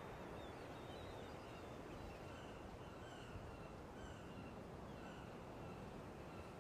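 Faint steady background hiss with faint short bird chirps repeating about every half second.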